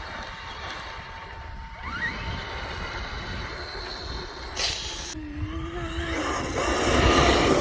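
Electric radio-controlled Traxxas truck driving, its motor whining up and down with the throttle and growing louder near the end as it comes closer, with a brief swish about five seconds in.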